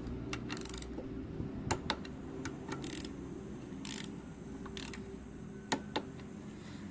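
Hand tools on a motorcycle engine being assembled: short bursts of ratchet-wrench clicking and several sharp metallic clinks, over a steady low hum.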